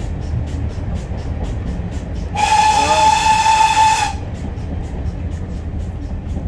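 Steam locomotive's whistle sounding once, a steady tone held for about a second and a half and cut off sharply, over the continuous rumble of the train running along the line.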